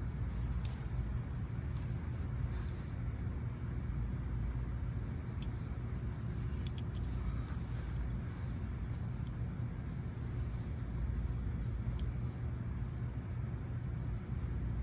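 Crickets trilling in a steady, unbroken high-pitched chorus over a low steady rumble.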